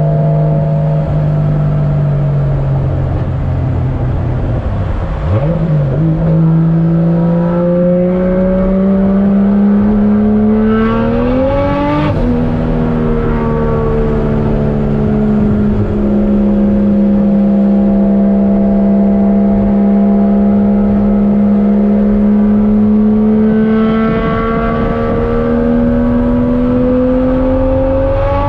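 Swapped 1JZ-GTE VVTi turbocharged straight-six engine in a Nissan 240SX pulling up through the revs, dropping sharply at a gear change about twelve seconds in, holding a steady cruising note, then climbing again near the end.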